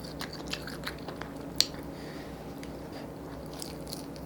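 Close-miked chewing and wet mouth sounds of someone eating, with scattered small smacks and one sharper click about a second and a half in, over a faint steady hum.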